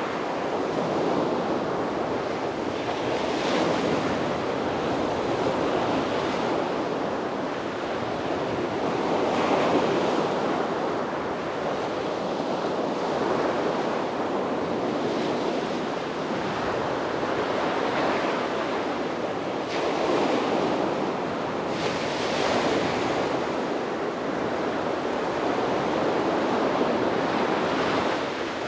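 Sea waves breaking on a beach, a steady wash of surf that swells every few seconds as each wave comes in. Some wind buffets the microphone.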